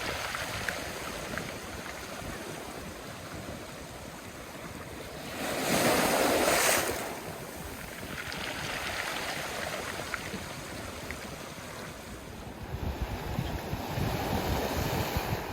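Sea waves washing onto the shore, with one louder wave breaking about six seconds in. Wind buffets the microphone near the end.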